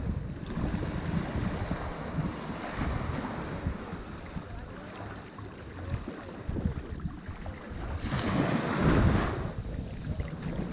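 Ocean surf washing onto a shore in a steady rush, with one louder wave breaking about eight seconds in and dying away a second or so later.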